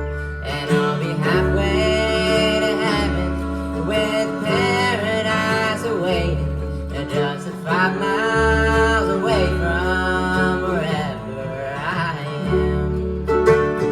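Bluegrass band playing: banjo and guitar picking over a bass that pulses on the beat, with a melody line bending in pitch above them.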